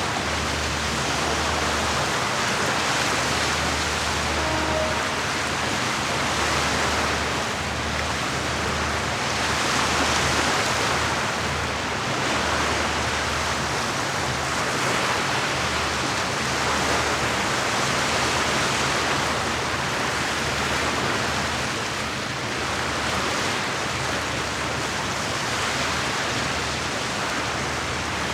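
Lake water washing against the shore: a steady rushing hiss that swells and eases every few seconds, with a low rumble underneath.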